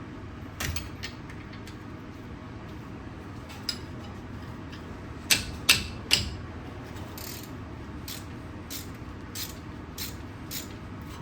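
Hand tools working on a car's front brake caliper bolts with a socket wrench and spanner. Scattered metal clicks and clinks build to three loud knocks about halfway through, followed by a run of even clicks about two a second.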